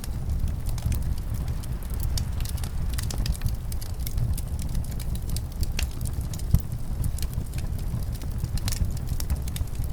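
Wood fire crackling with frequent sharp pops, one louder about two-thirds of the way through, over a steady low rumble of winter wind.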